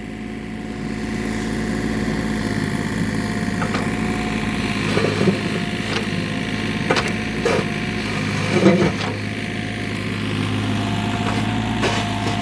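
Household plumbing humming steadily, with irregular knocks and thuds in the pipes, about seven spread unevenly through the hum.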